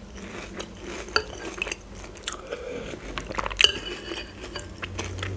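Close-up chewing of a mouthful of Start! Milk Pillows cereal pillows soaked in milk, with crisp crunches. About three and a half seconds in, a metal spoon clinks against the glass bowl with a short ring.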